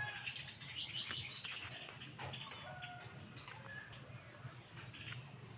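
Birds chirping with scattered short calls and brief whistled notes, over a steady faint high-pitched tone.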